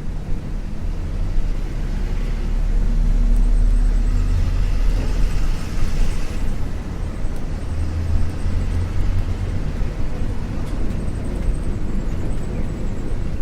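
Isuzu U-LV224N bus's 6QB2 diesel engine running under way, heard from inside the cabin as a steady low drone. It grows louder and brighter for a few seconds and eases off about six seconds in.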